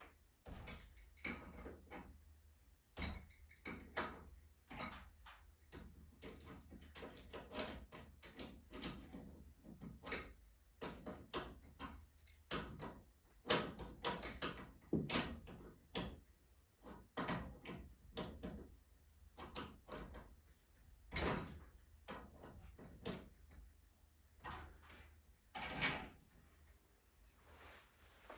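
Irregular clicks, knocks and light clanks of hands and tools working on garage door torsion spring hardware, with two sharper knocks about halfway through.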